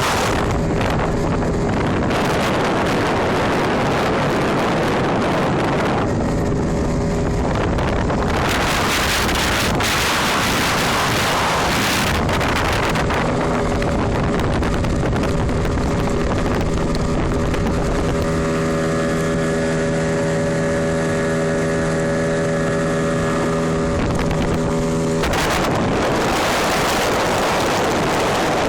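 Tohatsu 18 hp outboard motor running steadily under way, during the engine's break-in run, with heavy wind noise on the microphone. The engine's steady tone stands out more clearly at times when the wind drops.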